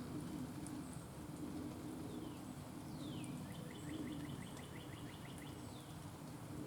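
A songbird singing: a couple of down-slurred whistles followed by a fast trill of about a dozen notes, then another falling whistle near the end, over a steady low background rumble.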